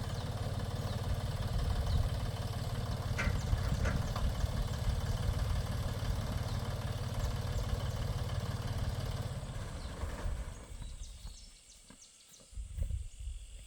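Tractor engine running steadily, dying away about ten seconds in.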